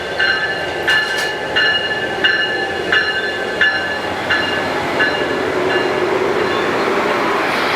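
A bell strikes about one and a half times a second, fading and stopping about six seconds in, while the rumble of an approaching passenger train builds and is loudest near the end.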